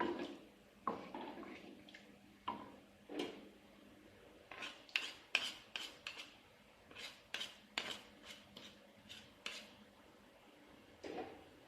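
Cutlery clinking and scraping against dishes: a string of irregular light knocks, some closer together in the middle of the stretch.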